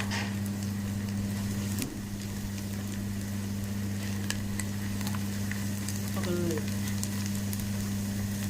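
Sliced onions and ground dried anchovies sizzling and frying in oil in a pan for sambal, stirred with a spatula that scrapes and ticks against the pan now and then. A steady low hum runs underneath.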